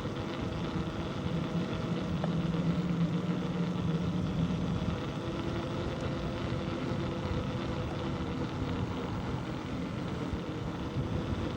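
A motor vehicle's engine running steadily over a rushing noise, its low hum louder for a few seconds from about one and a half seconds in.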